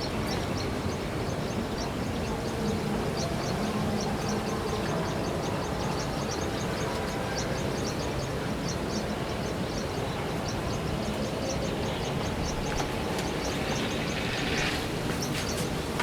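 Steady engine-like rumble, with quick high chirps repeating several times a second over it and a short hiss about a second before the end.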